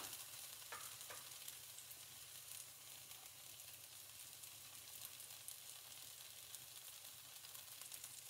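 Onions frying in oil in a nonstick pan over medium heat: a faint, steady sizzle with fine crackles.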